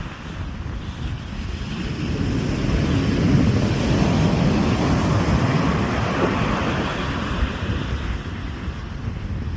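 Ocean surf breaking: a wash of water noise that swells about two seconds in, is loudest in the middle and ebbs near the end, with wind rumbling on the microphone.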